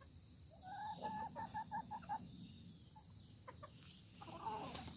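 A rooster giving a quick run of short low clucks, about six notes in just over a second, starting about a second in: the food call a rooster makes to draw hens to something he has found. A steady high insect drone runs underneath.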